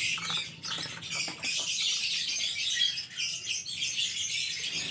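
Small birds chirping steadily in the background, with a few faint handling clicks in the first second or so.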